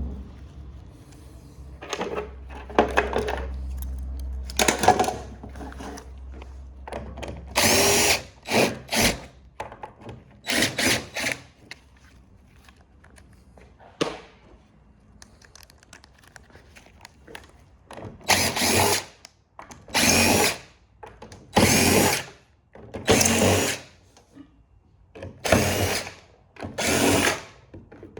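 Cordless drill-driver run in more than a dozen short trigger bursts, stopping and starting, coming about every second and a half in the second half. It is trying to back out a stubborn screw whose head is packed with dirt, using a worn, rounded bit. A low steady hum runs under the first several seconds.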